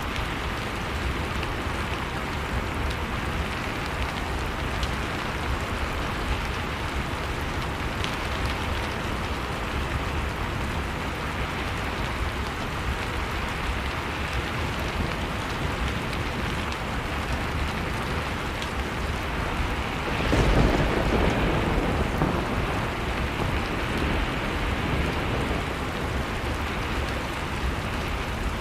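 Wood fire crackling in a fireplace over a steady rush of blizzard wind. About two-thirds of the way through, a deeper rumble swells up suddenly and slowly eases off.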